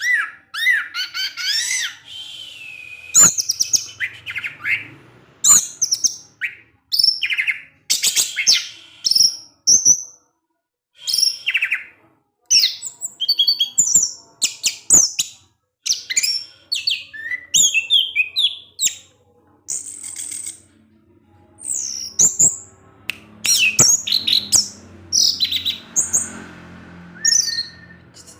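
Orange-headed thrush (anis merah) singing a varied run of clear whistled phrases and sharp chirps, some sweeping quickly up or down, with short pauses between bursts.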